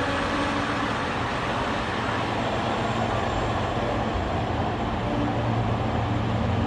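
Heavy diesel machinery engine running steadily, a low drone under constant noise with no sudden knocks or changes.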